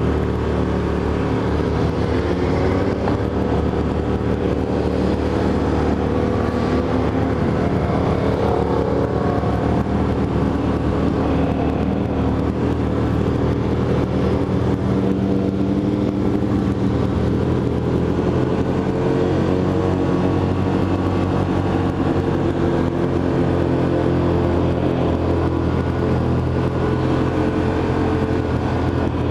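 Motorcycle engine running steadily, its pitch drifting slowly up and down.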